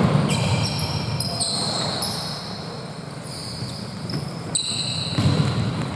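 Basketball game play in a gym: the ball bouncing and short high-pitched squeaks from players' shoes on the court, echoing in the hall.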